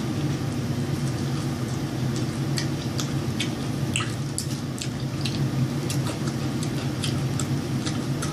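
Steady low hum with scattered small wet clicks and smacks from about two and a half seconds in, the kind of mouth sounds made while chewing food.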